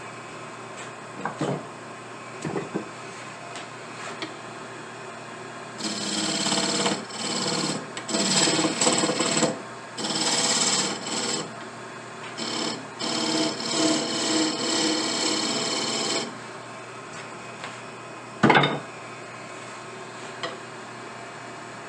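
Briar wood being shaped with an abrasive tool: a run of short rasping strokes lasting about ten seconds, with a few light knocks before them and one sharp knock near the end.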